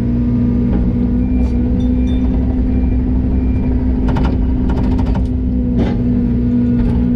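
A heavy diesel machine running steadily with a constant hum, and a quick series of sharp metallic clanks about halfway through.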